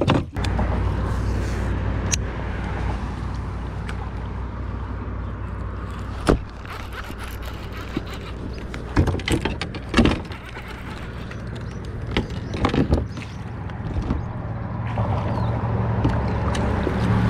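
Boat motor running steady and low under way, a few seconds after it starts. It gets a little louder near the end, and a few knocks from gear being handled in the boat sound over it.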